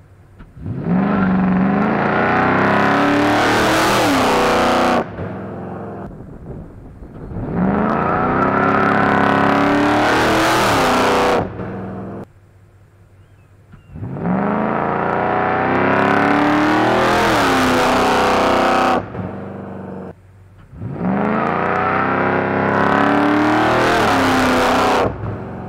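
Lincoln Town Car's 4.6-litre V8, fitted with headers and a 2.5-inch exhaust, revving hard under full-throttle acceleration. Four long rising pulls, each dropping off sharply before the next.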